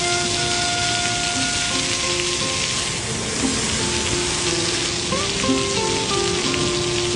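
Heavy rain falling in a steady hiss, with slow melodic background music playing over it.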